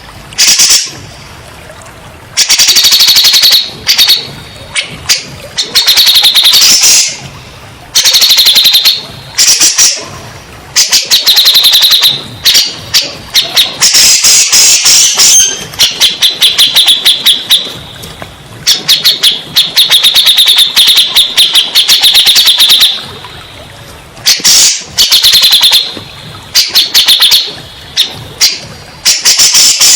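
Cucak jenggot (brown-cheeked bulbul) song played as a therapy/lure track: loud, rapid chattering phrases centred on one high pitch, repeated in bursts a second or two long with short pauses between. The track is meant to provoke a silent bird into answering.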